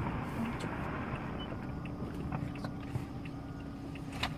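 Fireworks dying away after a volley of aerial shell bursts: a fading rumble with scattered faint crackles and one sharper pop near the end.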